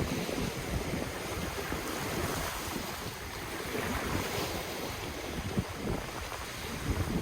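Ocean waves washing ashore in a steady wash of surf, with wind rumbling unevenly on the microphone.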